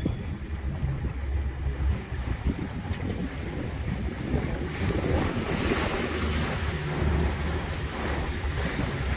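Water rushing and splashing past a moving boat, with wind buffeting the microphone and a low rumble underneath. The water hiss grows louder about five seconds in.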